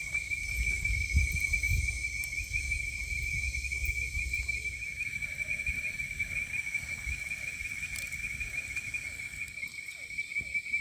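A cricket trilling steadily at one high pitch, with a low rumble underneath that fades about halfway through.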